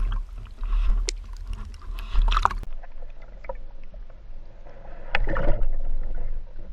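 Water sloshing and splashing around a freediver at the sea surface, with irregular clicks and knocks over a low rumble; a louder burst of splashing comes near the end.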